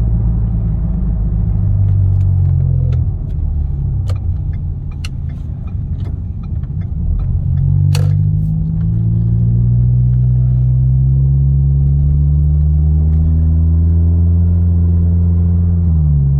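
2012 Ford Fusion's 2.5-litre four-cylinder engine and Magnaflow 10416 resonator exhaust droning inside the cabin while driving. The pitch eases off for a few seconds, then rises steadily as the car accelerates, and drops sharply near the end, as at an upshift. A few light clicks come through in the middle.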